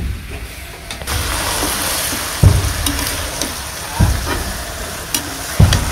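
Food frying in a hot cooking pot, a steady sizzle that starts suddenly about a second in. A dull knock about every second and a half comes from the food being stirred in the pot.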